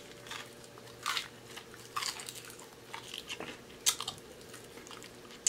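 Close-miked chewing of crunchy fried food, with several sharp crunches spread about a second apart.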